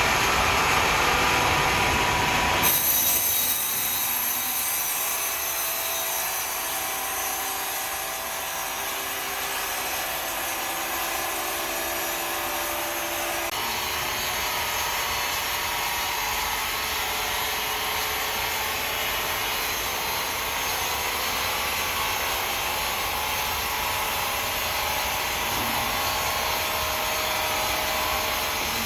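Sawmill saw cutting through a log, a steady hiss with a faint whine. The sound changes abruptly about three seconds in and again about halfway through.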